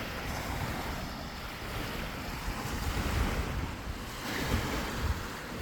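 Lake Superior waves washing onto the shore, a hiss that swells and eases, with wind rumbling on the microphone.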